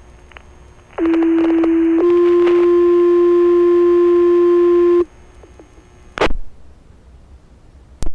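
Fire department two-tone radio page, the alert tones that set off the station's pagers: one steady tone held for about a second, then a slightly higher tone held for about three seconds, which stops abruptly. A short burst of radio static follows about a second later.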